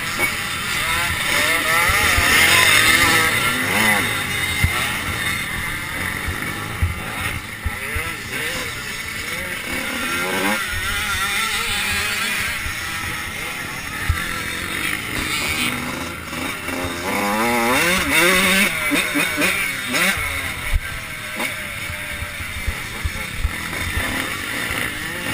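Several 85cc two-stroke motocross bikes revving hard, their engine notes overlapping and rising and falling as they accelerate and pass. The pack is loudest about two seconds in and again late on.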